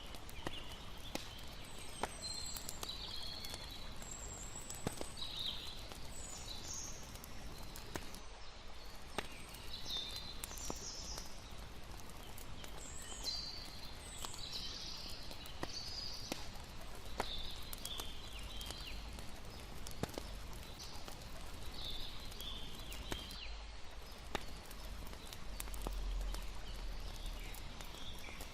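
Layered night ambience: a campfire crackling with scattered sharp pops over a steady hiss of flowing water, with short high chirps coming and going every second or so.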